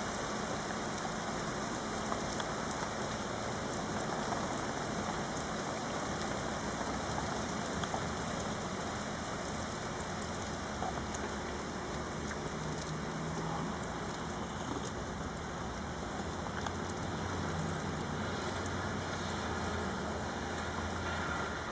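Heavy rain falling steadily, a dense, even hiss of drops hitting surfaces. A low hum rises under it from about halfway through.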